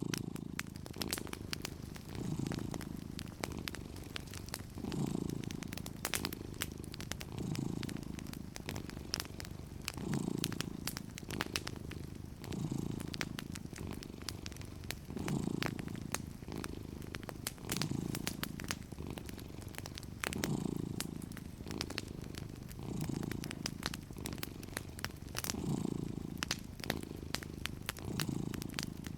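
A cat purring steadily, the purr swelling with each breath about every two and a half seconds. Over it, a wood fire crackles with frequent sharp pops.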